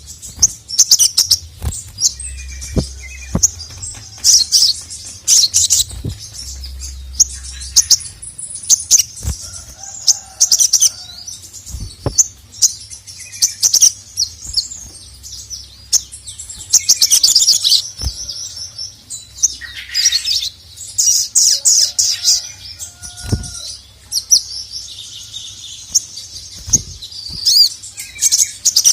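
Little spiderhunter (sogok ontong) singing: bursts of rapid high-pitched chirps and sharp clicks, repeated over and over.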